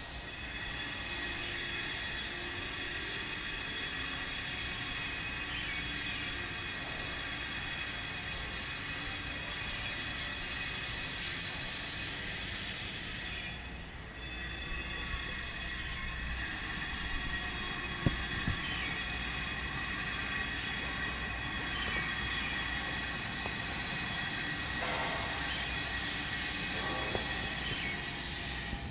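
Power tool working stone, running with a steady high-pitched whine over a grinding hiss. It dips briefly about halfway through, then carries on.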